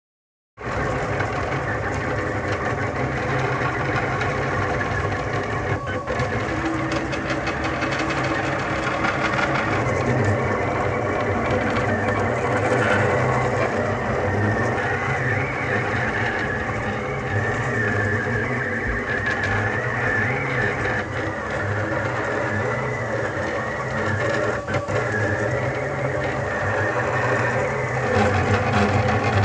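RepRap 3D printer running a print: its stepper motors whine in steady tones that shift in pitch as the print head moves, starting suddenly about half a second in.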